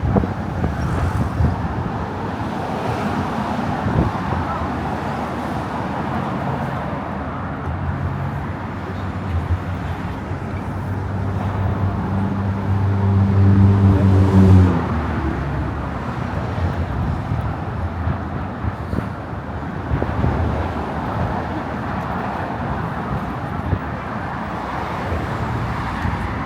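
Steady road traffic noise. About halfway through, one vehicle passes louder with a low engine drone that drops slightly in pitch and cuts off suddenly.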